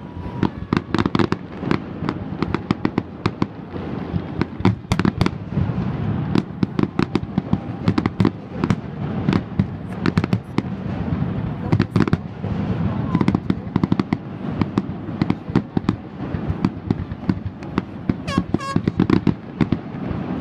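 Aerial fireworks shells bursting in a dense barrage, several sharp bangs a second with hardly a pause.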